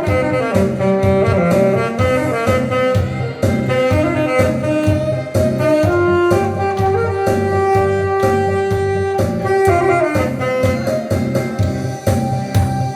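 Alto saxophone playing a melody over an accompaniment with a steady beat. About six seconds in, one note is held for some three seconds before the tune moves on.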